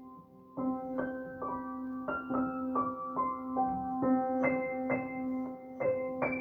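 Piano music: a gentle melody of single struck notes that ring and fade, over a steady low held tone, resuming after a short lull about half a second in.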